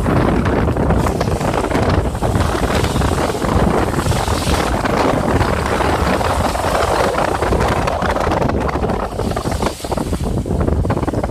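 Loud, gusting wind buffeting the microphone over the wash of Black Sea waves.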